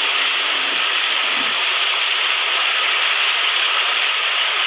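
Rushing water from big breaking waves: a steady, unbroken hiss.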